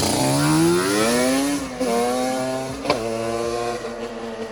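Car engine accelerating, its note rising smoothly for about a second and a half and then holding steady, with a couple of sharp clicks.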